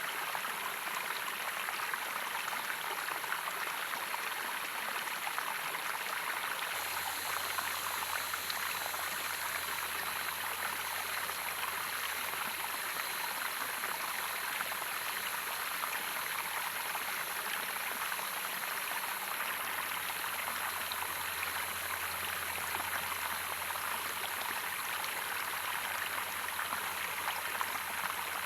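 Waterfall water running and splashing, a steady even rush of water.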